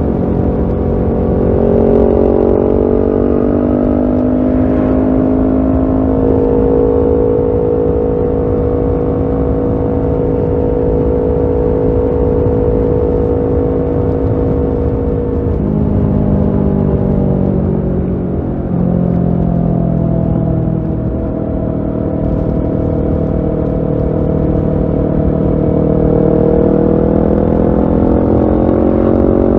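Kawasaki Ninja 650's parallel-twin engine running through a Shark SRC-4 full exhaust under way. The engine note holds steady for the first half, falls in pitch about halfway through, then climbs steadily again near the end as the bike accelerates.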